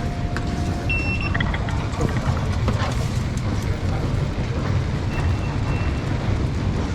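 Steady low rumble of the London Underground, with a few short high beeps over it.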